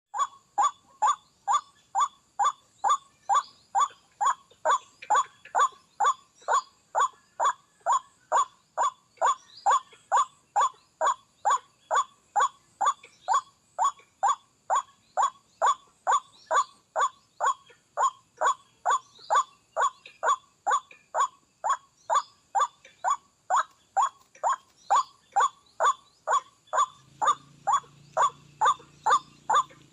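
White-breasted waterhen call: one short, dropping note repeated very evenly, about twice a second. This is the ruak-ruak call used to lure the birds to the snares.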